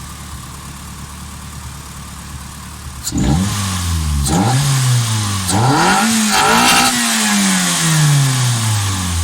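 Rebuilt Toyota 4A-GE twin-cam four-cylinder engine running low at first, then revving hard about three seconds in. Its pitch climbs, drops back and climbs again twice, then falls away slowly as the revs come down, with a loud intake noise over it.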